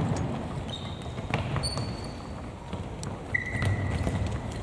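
Ball thumps and scattered knocks from play on an indoor court, with a few brief high squeaks.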